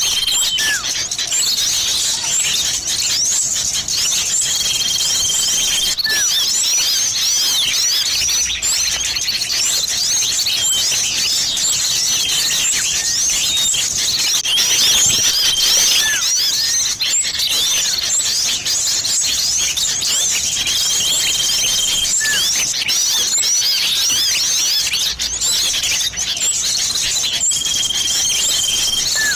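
Dense, unbroken chattering of many small birds, used as a bird-lure recording of sirtu and cipoh (common iora) calls. It is high-pitched and busy, with a level whistle held for about a second that recurs every several seconds.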